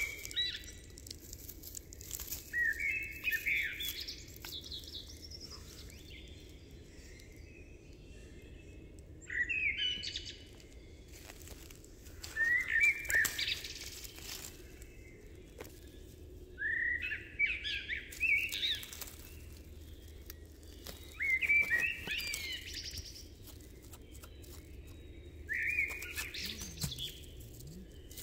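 A songbird singing short phrases of quick high notes, six times, each a second or two long with a few seconds' pause between them.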